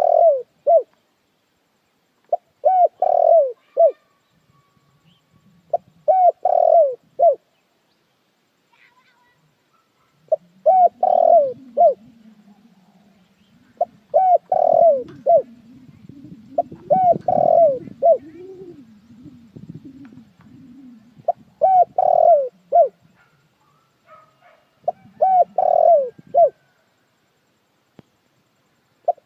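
Spotted dove cooing: a short phrase of several falling coo notes, repeated about every three to four seconds. A lower, softer murmur runs underneath for a while in the middle.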